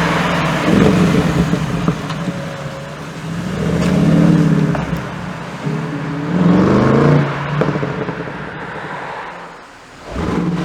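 Bentley Continental GT3-R's twin-turbo 4.0-litre V8 through its Akrapovic exhaust, revving up in two rising surges about four and seven seconds in, then fading near the end before picking up again.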